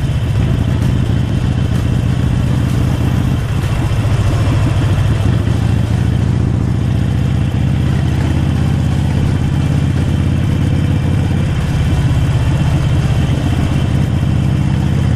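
Harley-Davidson Forty-Eight Sportster's air-cooled 1200 cc V-twin running at a steady pitch while the bike is ridden, with a steady rush of wind and road noise over it.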